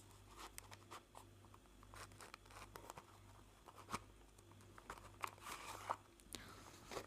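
Quiet close-up handling sounds: scattered light taps and clicks, with a couple of short rustles near the end.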